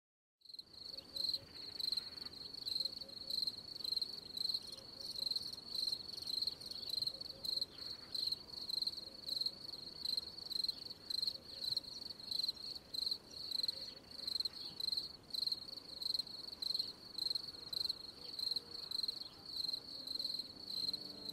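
Cricket chirping: a high, steady trill in evenly repeating pulses, like a night-time field. Faint music comes in near the end.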